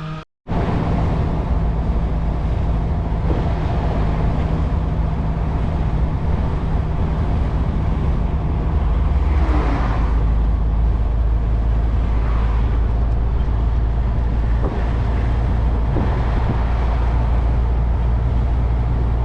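MAN TGX lorry on the move: steady engine and road noise, with the low engine drone shifting in pitch about eight and eleven seconds in.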